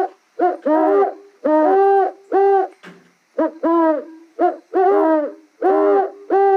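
An animal giving a rapid run of short hooting calls, each rising and then falling in pitch, about two or three a second.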